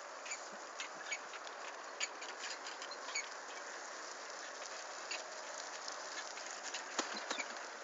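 Bicycle riding over a forest dirt track: a steady tyre hiss with irregular clicks and rattles, one louder knock near the end.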